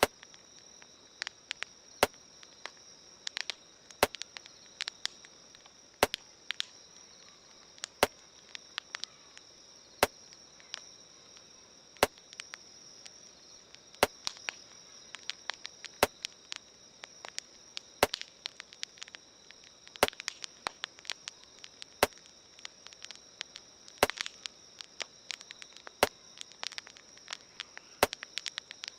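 Campfire crackling, with irregular sharp pops and snaps, over a steady high chirring of insects. A sharper click also comes evenly, once every two seconds.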